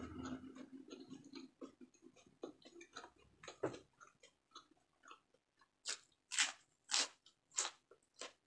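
Close-miked mouth sounds of someone chewing crisp fresh lettuce: small wet clicks, then a run of five louder, crisp crunches about every half second near the end.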